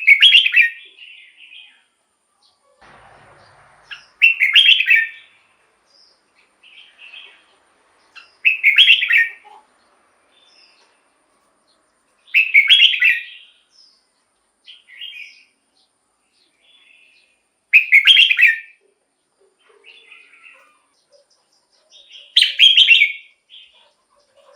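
Red-whiskered bulbul singing: six loud, short song phrases, one about every four to five seconds, with softer chirps between them.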